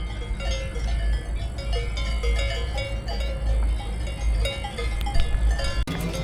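Cowbells on grazing livestock clanking and ringing irregularly, several bells at different pitches, over a low rumble.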